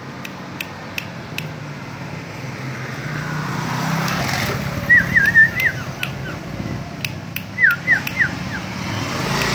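A cipau songbird gives two brief bursts of quick, high whistled notes, about five seconds in and again about eight seconds in, over a steady low rumble of passing vehicles, with a few sharp clicks.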